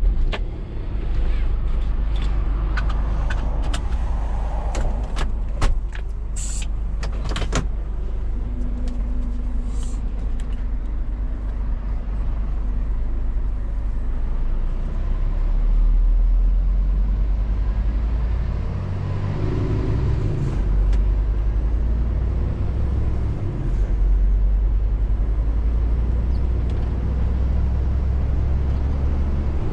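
Scania R450 lorry's 13-litre six-cylinder diesel running on the road, a steady low drone with tyre and road noise. There are several sharp clicks and knocks in the first several seconds, and the engine note shifts briefly about two-thirds of the way through.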